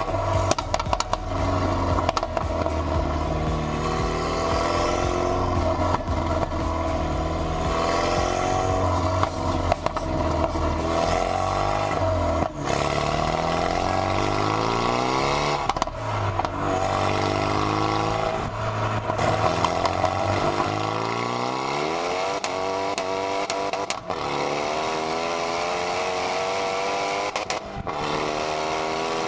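Renault Megane RS 265's turbocharged 2.0-litre four-cylinder engine and exhaust accelerating through the gears. The revs climb steadily, then drop sharply at each of several gear changes.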